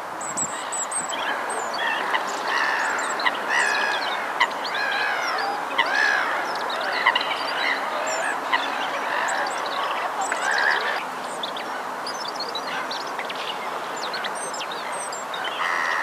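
Many bird calls overlapping, short rising and falling notes, busiest through the middle and thinning out after about eleven seconds, with a few high chirps near the start.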